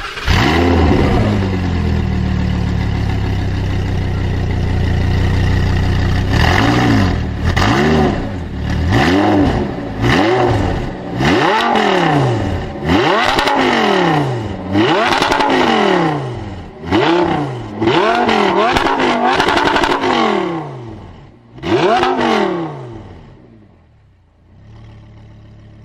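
Audi R8's V10 engine through a Per4mance aftermarket exhaust, revved up and held high for several seconds. It then blips about ten times in a row, each rev rising and falling, before settling back to idle near the end.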